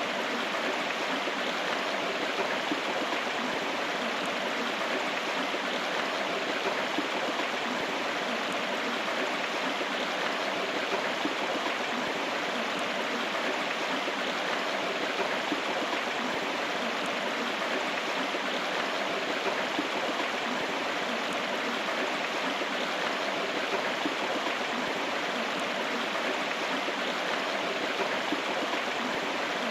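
River water flowing: a steady, even rush with no breaks or distinct events.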